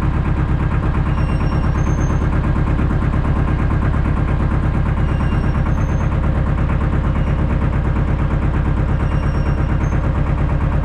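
Ford compact tractor's engine running steadily with a fast, even pulsing.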